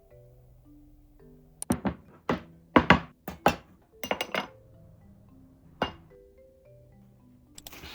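A series of sharp kitchen knocks and clinks, about a dozen, crowded between about one and a half and four and a half seconds in, with one more near six seconds. They sound like utensils and dishes striking one another. Soft background music plays throughout.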